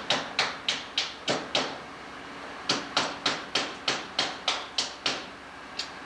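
A run of sharp knocks or strikes, about three a second, each dying away quickly. They stop for about a second midway and resume, fading to a few scattered taps near the end.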